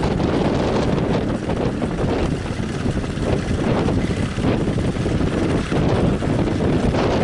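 Strong wind buffeting the microphone: a dense, uneven roar that rises and falls in gusts.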